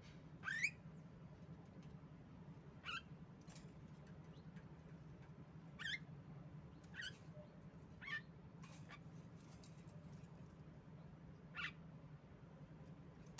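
Female Javan myna (jalak kebo) giving short, sharp calls at uneven intervals, about seven in all, the first the loudest, over a steady low hum.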